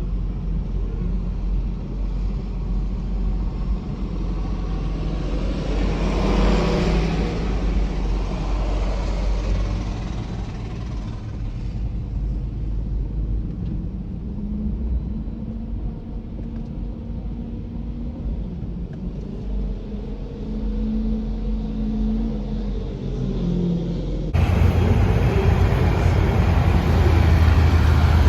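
Low, steady rumble of diesel pickup truck engines, with a louder swell that rises and fades about six to eight seconds in. About twenty-four seconds in the sound cuts abruptly to a louder, deeper engine rumble.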